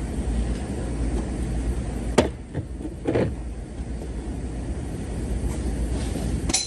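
Sharp knocks on sheet metal while a dented car quarter panel is worked out: one about two seconds in, more around three seconds, and a sharp metallic tap with a brief ring near the end. A steady low rumble runs underneath.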